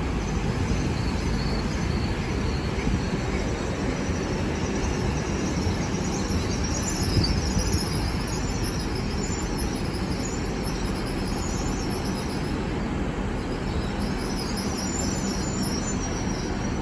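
Train running at a station platform: a steady low rumble, with faint high wavering squeals from the wheels coming and going in the middle.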